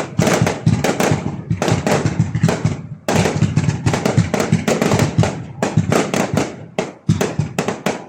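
Fireworks going off in a rapid, irregular string of loud bangs and cracks, several a second.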